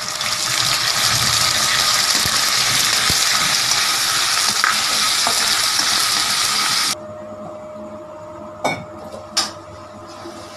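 Masala paste frying loudly in hot oil in a steel kadhai, a dense sizzle that cuts off abruptly about seven seconds in. After it come two short sharp knocks.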